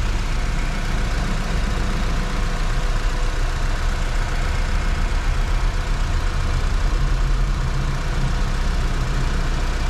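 1997 Honda Civic's 1.4-litre (1396 cc) four-cylinder petrol engine idling steadily, heard from in front of the open engine bay.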